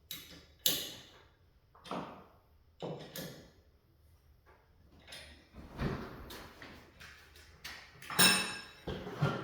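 Separate metal knocks and clanks from garage door hardware being worked on, five or six in all, the loudest about eight seconds in ringing briefly.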